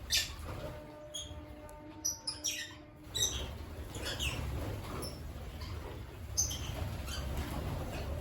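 African lovebirds chirping: scattered short, high calls, about one a second, over a low rumble.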